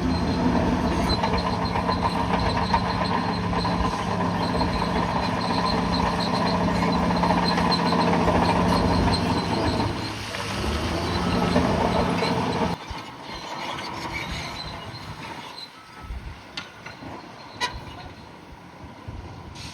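Heavy diesel engine of a bulldozer running steadily under load. The sound drops off abruptly about 13 seconds in, leaving a quieter, uneven rumble with a few sharp clanks.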